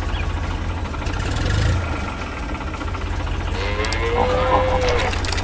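Tractor engine running with a steady low rumble. About three and a half seconds in, a cow gives one drawn-out moo.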